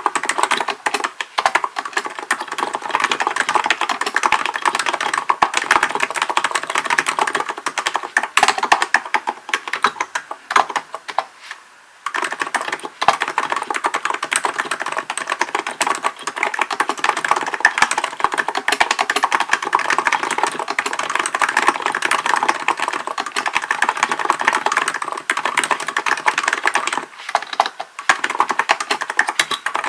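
Fast, continuous typing on a Hansung GK898B electro-capacitive (non-contact) keyboard, a dense run of soft key strokes. It pauses for about a second near the middle and breaks briefly twice near the end.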